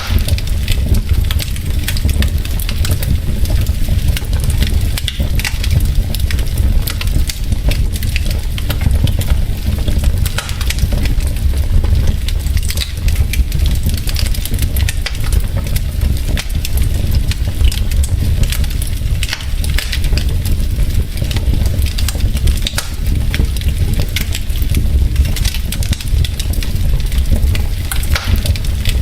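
Wood fire of burning logs in a fireplace crackling steadily, with many small irregular pops and snaps over a constant low rumble of the flames.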